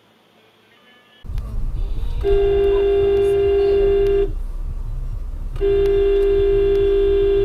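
A vehicle horn blown in two long, steady single-note blasts, the second longer, over the rumble of a moving vehicle's engine and road noise that starts suddenly about a second in.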